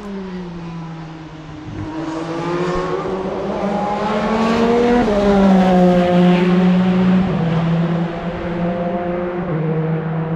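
Racing car engine passing on the circuit: the note climbs as the car approaches, drops in pitch as it goes by about five seconds in, is loudest just after, and then holds steadier as it moves away.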